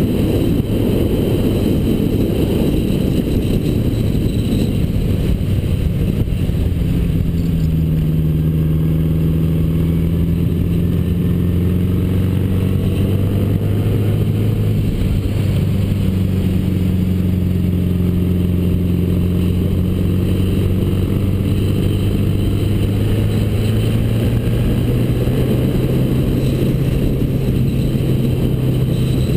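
A 1979 Honda GL1000 Gold Wing's flat-four engine running while riding, under heavy wind and road rush. The engine note drifts up and down with speed and steps up near the end.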